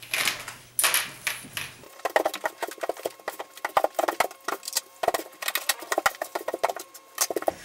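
Rapid, irregular clicking and clattering, many small sharp strokes in quick succession, starting about two seconds in after a few scattered noises.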